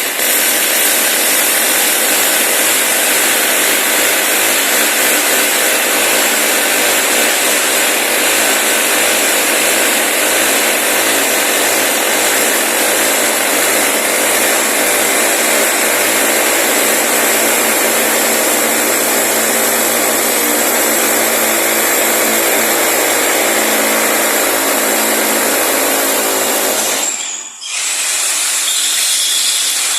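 An electric power tool runs steadily at full speed for most of the clip, stops about three seconds before the end, then starts again briefly.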